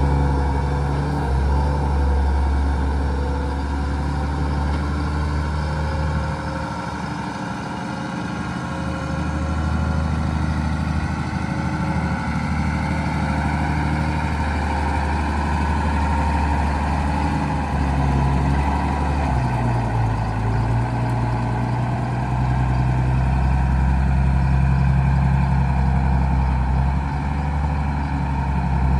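Case IH Magnum 7120 tractor's six-cylinder diesel engine running steadily, its note shifting a couple of times as engine speed or load changes.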